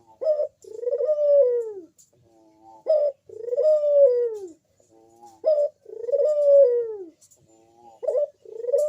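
Crossbred puter dove (domestic ringneck dove) cooing: a short clipped note followed by a long, slightly rising then falling coo, repeated about every two and a half seconds, three and a half times.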